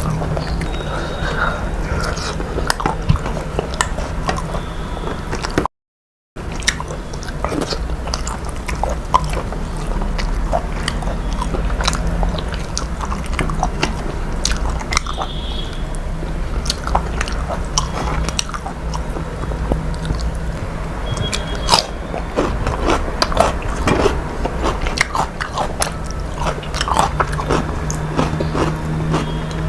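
A person chewing and biting food close to the microphone, with many small irregular mouth clicks and smacks over a steady low hum. The sound cuts out completely for about half a second around six seconds in.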